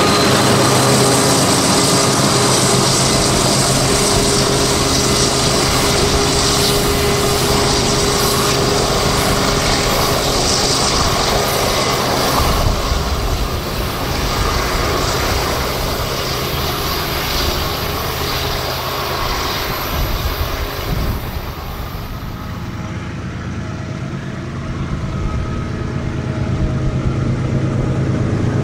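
BNSF freight train passing, its diesel locomotives' engines running under the noise of steel wheels rolling on the rails. The high hiss thins out about three quarters of the way through, and the engine sound builds again near the end.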